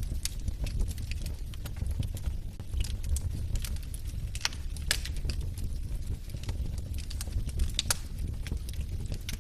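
Wood fire in a fireplace burning, with a steady low rumble of flames and irregular crackles and pops from the logs, a few sharper snaps along the way.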